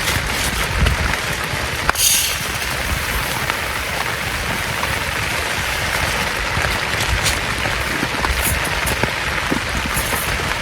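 Heavy rain falling steadily, a dense even hiss with a few sharper drop taps, the brightest about two seconds in.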